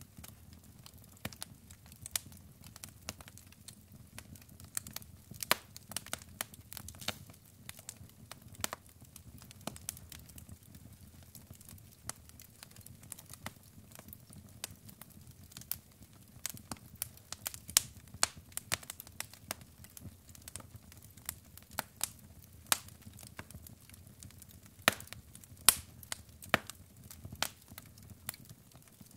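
Wood fire of burning logs crackling, with irregular sharp pops and snaps over a low steady rumble of flame.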